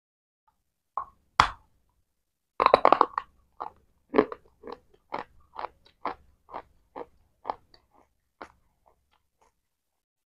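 Close-miked bite into something hard and brittle, a sharp crack, then a quick run of crunches and steady chewing crunches, about two a second, that grow fainter near the end.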